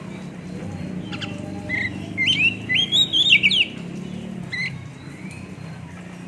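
Oriental magpie-robin (kacer) singing in a rough, chattering style: quick sweeping whistled notes bunched into a burst about two to three and a half seconds in, with a few single notes around it. A steady low hum runs underneath.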